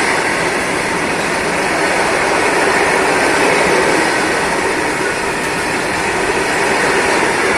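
Train running at speed: a loud, steady rushing noise of wheels and air.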